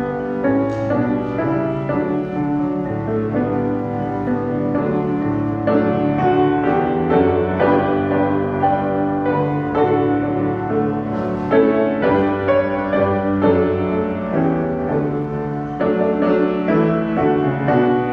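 Piano music, slow chords and melody played without singing.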